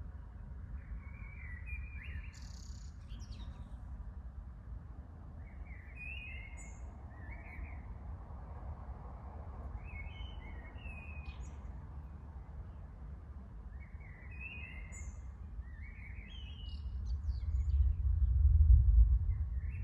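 Birds chirping in short clusters of calls every second or two, over a steady low rumble. Near the end a deep rumble of distant thunder swells up and eases off.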